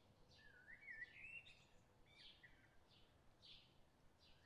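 Faint birdsong: a warbling phrase about half a second in, over a string of short high chirps repeating about twice a second.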